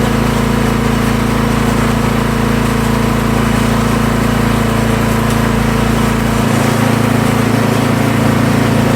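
Troy-Bilt snowblower's small gasoline engine running steadily at a constant speed. Its deepest rumble drops away about six and a half seconds in while the rest of the engine note carries on.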